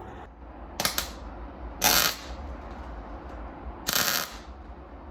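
Welder putting tack welds on an exhaust pipe: three short crackling bursts of arc, each well under a second.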